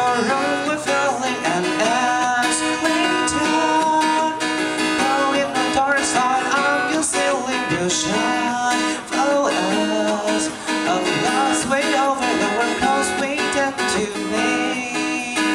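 Acoustic guitar strummed, with a picked melody moving over the chords, steady throughout.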